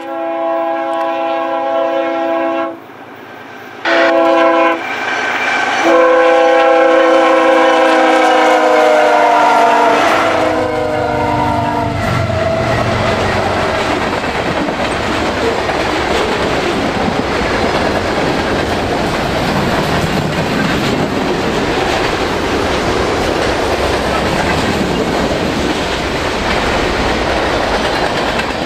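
CPKC freight train's locomotive horn sounding three blasts, long, short, long, for a level crossing, the chord dropping in pitch as the locomotive passes. Then the freight cars roll by with a steady rumble and clatter of wheels on the rails.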